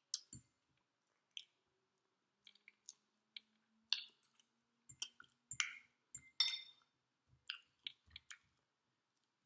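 Fork clinking and scraping on a plate while eating fried chicken: a dozen or so faint, scattered clicks and clinks.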